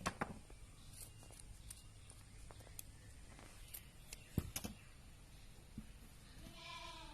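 Scissors snipping through a bundle of wound wool yarn: a few sharp snips and clicks, the loudest at the very start and again about four and a half seconds in. Near the end an animal bleats once in the background.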